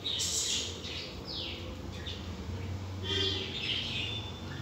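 Birds chirping in the background: a series of short chirps and quick falling whistles, over a faint steady low hum.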